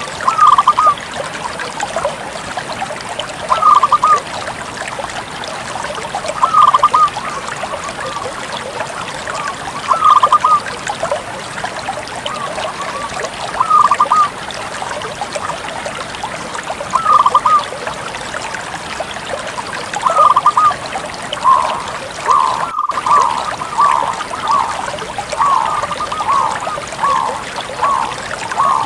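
Zebra dove (Bangkok-bred perkutut) cooing: a short cooing phrase repeated about every three seconds, then, about two-thirds of the way through, a quicker run of coos at about two a second, over a steady background hiss.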